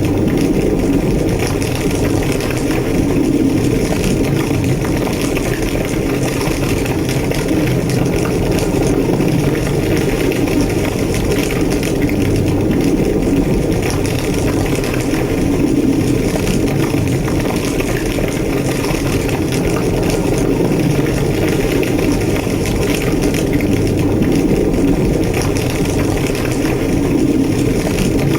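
Large structure fire burning with a steady, strong low roar and faint crackling.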